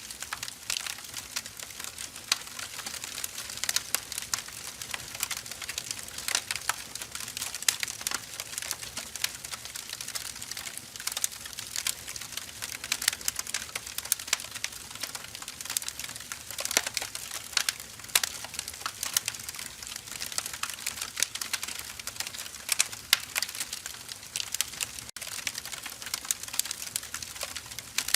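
Firewood logs burning with a continuous crackle: many irregular sharp pops and snaps over a soft hiss of flame.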